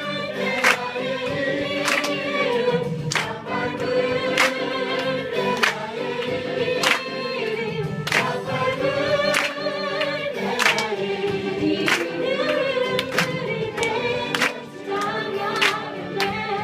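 A group of voices singing a gospel worship song together, with sharp hits on a steady beat about every second and a quarter.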